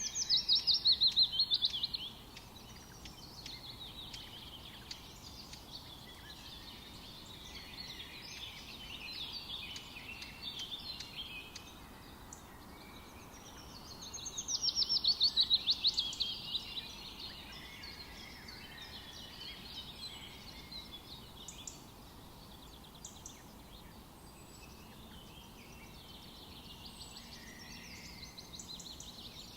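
Several songbirds singing together in forest ambience. A loud, very rapid trill that falls in pitch comes twice, at the start and again about halfway through, over steady twittering from other birds.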